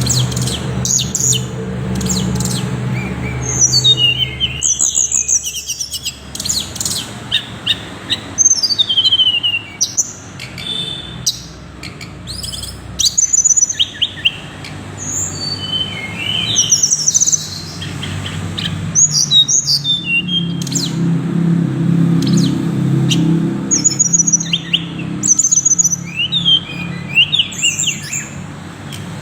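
Tickell's blue flycatcher singing: short, high phrases of quick rising and falling notes, repeated every second or two. A steady low hum runs underneath and grows louder about two thirds of the way through.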